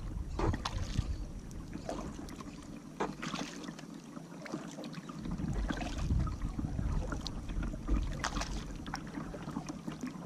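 Kayak paddle strokes in the water: irregular splashes and drips every second or two, over a low rumble of wind on the microphone.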